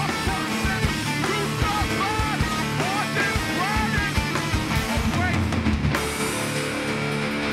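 Live hardcore punk band playing loud: fast pounding drum kit with bending guitar notes over it. About six seconds in the drumming stops and a sustained chord rings on.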